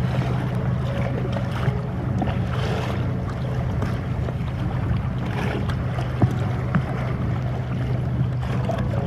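Choppy water sloshing and splashing around a kayak, with wind on the microphone, over a steady low hum. A couple of sharp knocks come about six seconds in.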